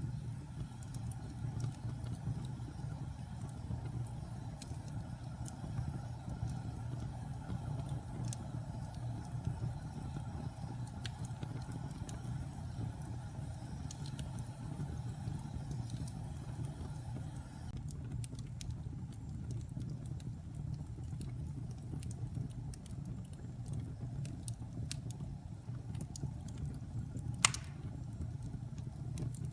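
Fire burning in a fireplace: a steady low rumble of the flames with scattered small crackles and one sharp pop near the end.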